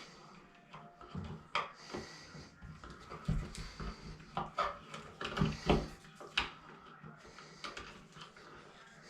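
Irregular clicks, knocks and light scrapes of hand work, busiest in the middle, with a few heavier thumps between about three and six and a half seconds in.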